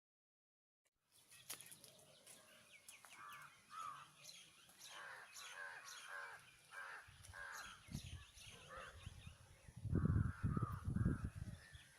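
Crows cawing repeatedly, with small birds chirping in the background, starting about a second in. Near the end, a few loud low rumbles are heard.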